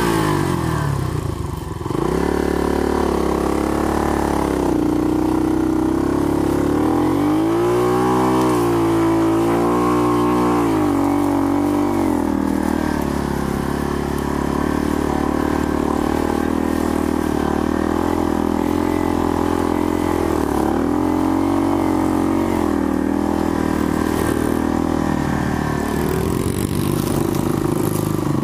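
Small Honda 70cc dirt bike engine running, its pitch rising and falling as the throttle is worked: a dip right at the start, a rev-up about eight seconds in that drops back a few seconds later, and another dip and rise around twenty seconds in.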